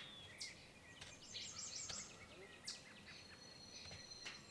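Several small birds faintly calling and singing: short high chirps and quick downslurred notes, a rapid jumble of notes about a second in, and a long thin steady whistle near the end.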